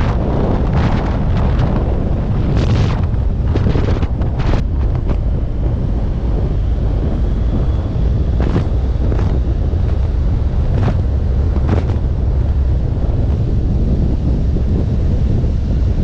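Wind buffeting the microphone of a camera on a moving motorcycle: a loud, steady low rush. Scattered brief clicks or knocks come through a few times.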